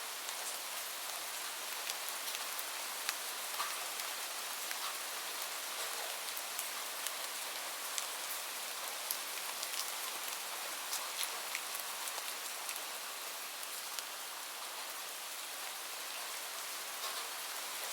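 Gentle rain falling steadily, with scattered sharp pops of a crackling fireplace over the even hiss.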